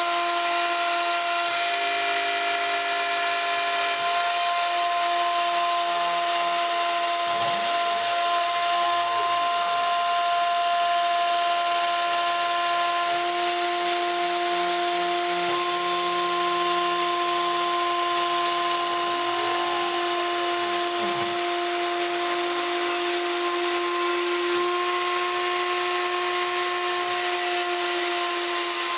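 Homemade CNC router's high-speed spindle milling aluminium with a quarter-inch endmill, a steady high-pitched whine over hiss. Brief rising and falling tones come and go a few times as the machine's motors change speed.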